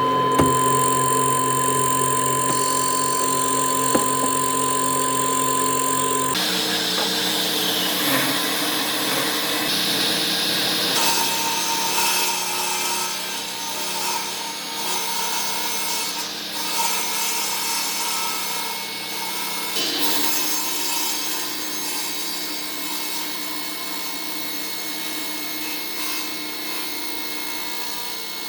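Power tools working wood. A motor runs with a steady whine for about six seconds, then the sound changes abruptly to a different tool's scraping, rasping noise over a steadier hum.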